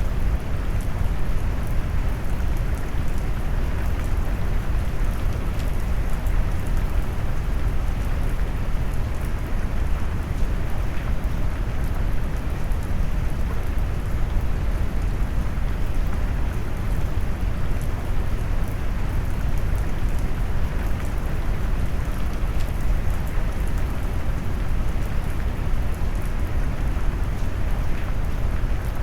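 Steady rain mixed with deep brown noise: an even, bass-heavy hiss with faint raindrop ticks above it, unchanging throughout.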